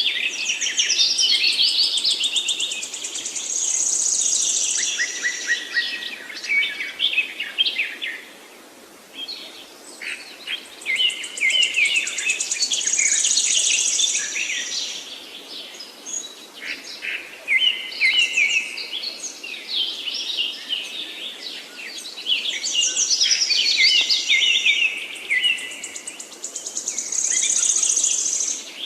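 Songbirds singing: long, varied phrases of rapid trills and chirps, loud and nearly continuous, with a short lull about eight seconds in and another near the end.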